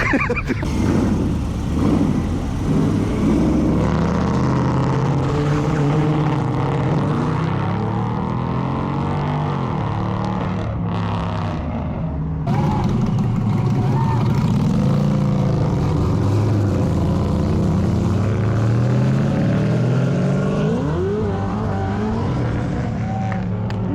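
Car engines running and revving, their pitch rising and falling, with a rising rev near the end and voices faintly in the background.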